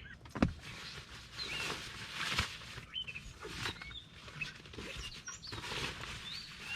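Small birds chirping repeatedly over close rustling and handling noises, with a sharp knock about half a second in.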